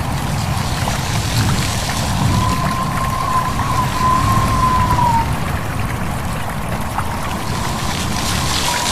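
Steady rush of a flowing stream with wind, heaviest in a low rumble. About two seconds in, a thin, slightly wavering tone sits over it for about three seconds.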